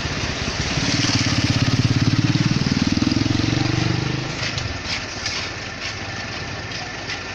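Concrete mixer truck's diesel engine revving up about a second in, running louder with a slight rise in pitch for about three seconds, then settling back to a lower steady run.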